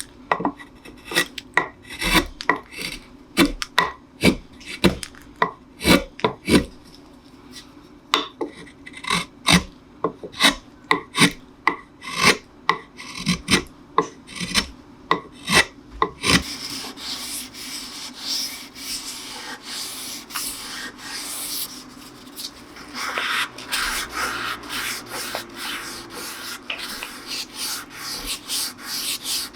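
Repeated short scraping strokes of a hand tool cutting into a wooden cello neck, about two a second. About halfway through they give way to a steady sanding rub as the neck is smoothed with sandpaper.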